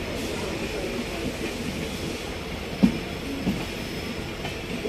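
Running noise of a passenger train heard from aboard: a steady rumble of wheels on rails. There is a sharp knock a little under three seconds in and a softer one about half a second later.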